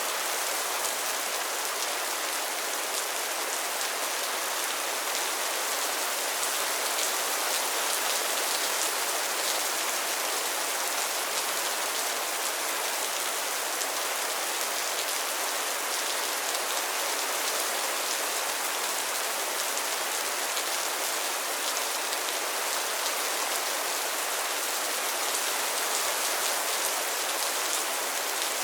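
Steady rain falling on a pond and its lily pads: many small drop hits blend into an even, unbroken hiss.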